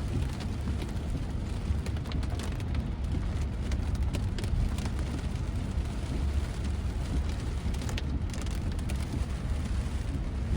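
Inside a moving Tesla Model Y's cabin in pouring rain: a steady low road rumble, with rain pattering and ticking on the car's body and glass.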